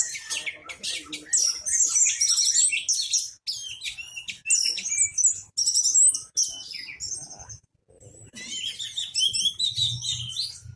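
Orange-headed thrush singing a long, rapid, varied song of high chirps and whistles, with a short break about three quarters of the way through.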